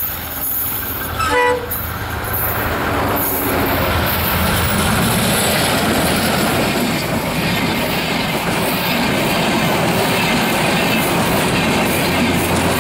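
Diesel locomotive of a passenger express passing close by. It sounds a short horn blast about a second and a half in, then the engine goes by and the coaches roll past with a steady rumble of wheels on the rails.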